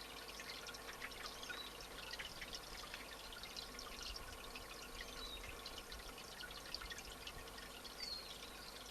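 Steady trickle of running water, a dense patter of small splashes, with a few short high calls over it.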